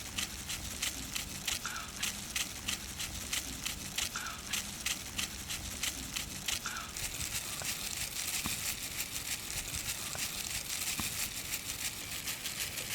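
Paneer being cut into fine shreds with a hand kitchen tool: rhythmic scraping strokes, about two or three a second, becoming a faster, more continuous rasp about halfway through.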